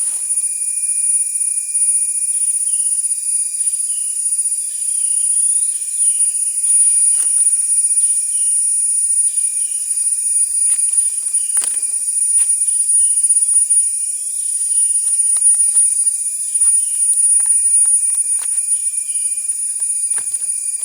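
Nature ambience: a steady high-pitched insect drone with a run of short, repeated bird calls over it and a few faint clicks.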